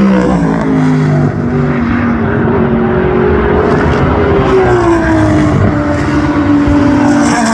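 Historic endurance racing cars passing at speed, one after another, their engine notes overlapping and falling in pitch as each goes by.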